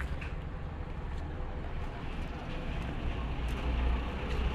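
Steady low rumble of an idling truck engine, with faint ticks and a little handling noise, growing slightly louder near the end.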